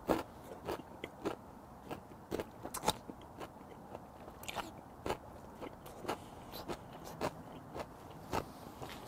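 A person chewing a mouthful of food with the mouth closed, picked up close by a clip-on microphone. Short, sharp chewing sounds come about twice a second.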